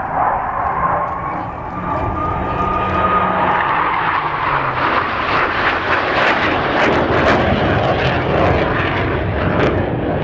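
Hawker Hunter jet fighter's Rolls-Royce Avon turbojet running loud during a display pass, the jet roar building and filling out higher. Over the first few seconds a thin whistling howl rises slightly in pitch over it: the Hunter's "blue note", a ghostly woo made by the triangular wing-root air intakes at certain angles of attack and power settings.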